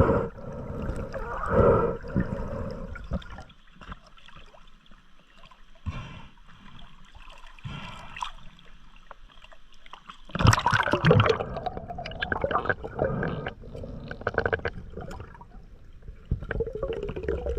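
Water sloshing and gurgling with irregular splashes, dying down for several seconds and then rising again in a louder bout of splashing about ten seconds in.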